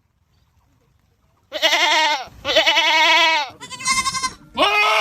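Goat screaming: after about a second and a half of silence, four wavering bleats follow in quick succession, the last one longer and steadier in pitch.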